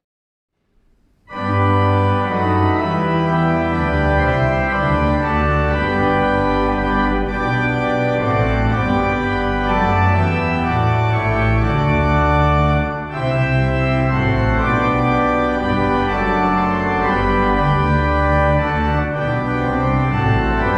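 Organ music: sustained chords with a moving bass line, starting about a second in after a moment of silence, with a brief break between phrases midway.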